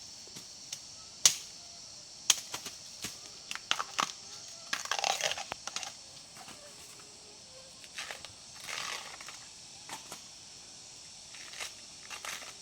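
Dry vegetation crunching and snapping: a series of sharp cracks and short crackling bursts. A steady high insect drone runs behind it.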